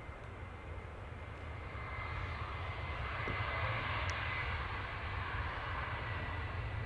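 Jet airliner's engines: a rushing noise that swells from about two seconds in and holds, over a low rumble, with a thin steady whine throughout.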